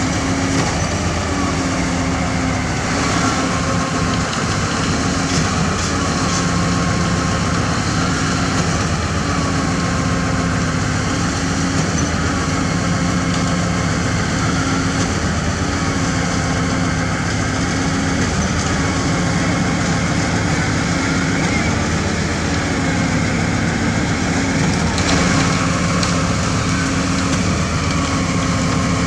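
Heavy diesel engine running steadily under load, its note shifting in a regular cycle every couple of seconds.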